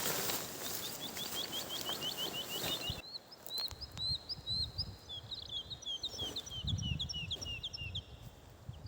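A songbird singing fast runs of short repeated chirping notes. A hiss-like rustle under it stops abruptly about three seconds in, and a few low dull thuds come in the second half.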